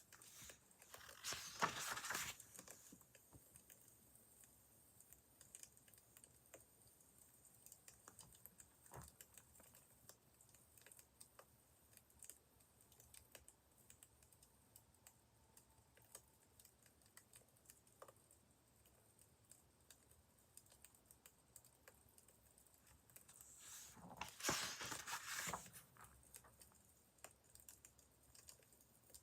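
Faint crackling of a wood fire, with scattered small pops. Two brief, louder rustles come about two seconds in and again near the end.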